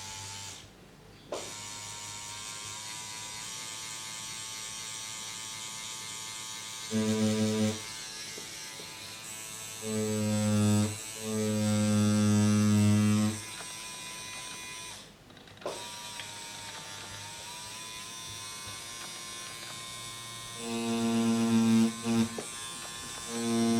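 Tattoo machine buzzing in several bursts of one to three seconds, a low even buzz with a steady, higher-pitched hum between the bursts.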